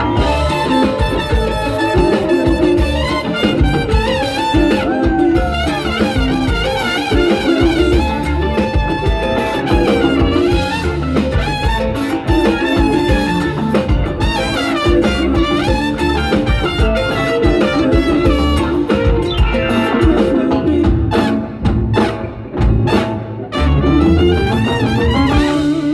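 A live Latin band playing a salsa-style number with brass, over a steady beat.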